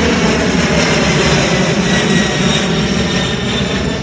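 Boeing 767's twin turbofan jet engines at takeoff thrust, a loud steady roar with a thin high whine over it as the airliner climbs out.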